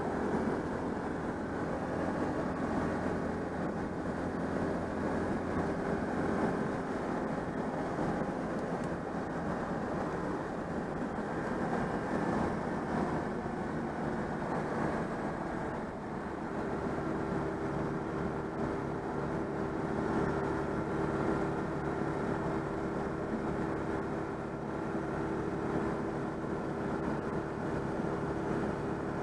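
Citroën 2CV's air-cooled flat-twin engine running steadily under way, with road noise. The engine note changes briefly about sixteen seconds in, then settles again.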